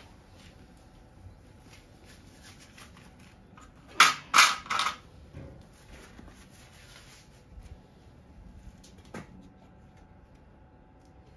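Three sharp knocks in quick succession about four seconds in, then a single lighter click later, over a faint low background.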